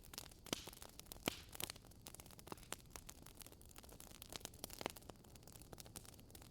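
Wood fire burning in a fireplace, crackling softly with irregular small clicks and a few sharper pops, the strongest about half a second and just over a second in, and another near five seconds in.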